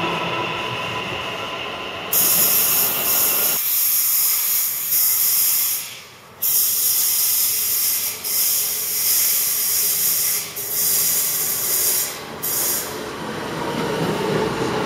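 Electric passenger train in an underground station: low rumble in the tunnel, then, after an abrupt change about two seconds in, a loud high hiss that comes and goes. Lower running noise builds near the end as a train runs past along the platform.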